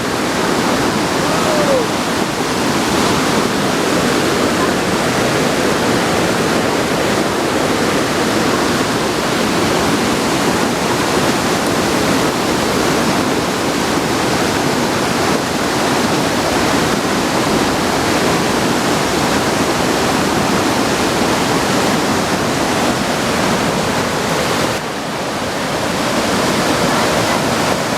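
Waterfall's falling water making a loud, steady rush that dips briefly near the end.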